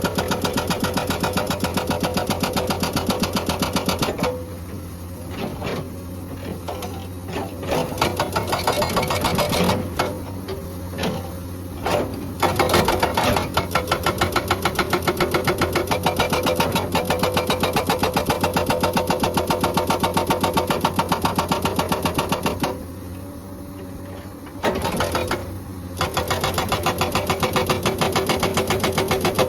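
Hydraulic rock breaker on a Komatsu excavator hammering in a fast, even rhythm, with the excavator's engine running underneath. The hammering breaks off twice, around four seconds in and again past twenty-two seconds, leaving mostly the engine before it starts up again.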